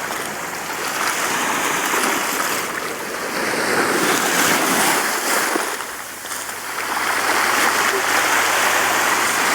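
Sea waves washing onto the shore, a continuous rushing of water that swells and eases every few seconds.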